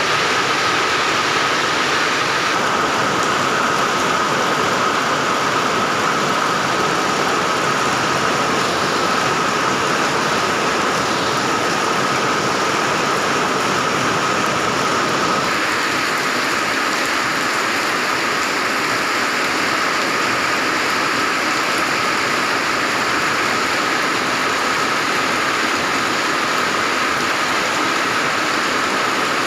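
Steady rain falling, an even hiss with a steady high tone running through it.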